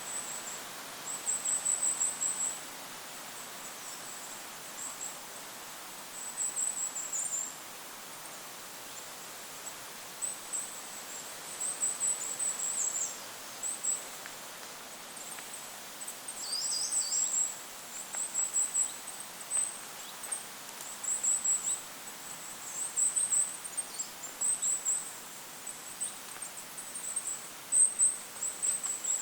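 Goldcrest calling: very high, thin notes in short runs, repeated every second or two, over a steady hiss of wind.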